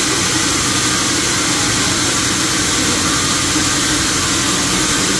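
Sawmill machinery running with a loud, steady, unbroken noise.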